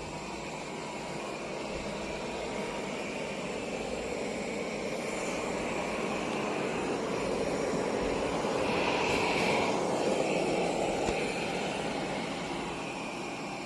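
Airzeen R7 robot vacuum cleaner running, its suction fan giving a steady whooshing noise that grows louder to a peak about two-thirds of the way through, then eases off.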